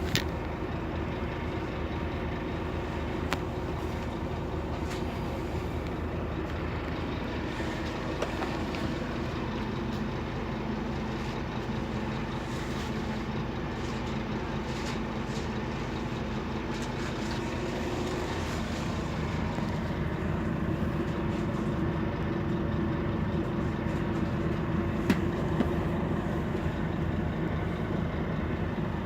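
Scania DC9 five-cylinder diesel engine of a Scania K280UB city bus running on the move, a steady drone with a few sharp clicks and rattles. About two-thirds of the way through the engine note shifts and grows a little louder.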